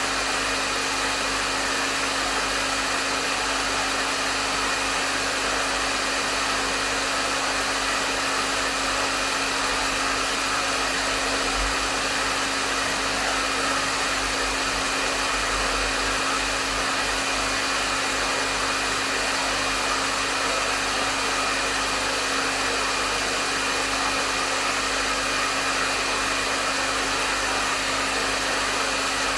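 Hair dryer running steadily at a constant setting: an even rush of airflow with a steady motor hum and a faint high whine, without change.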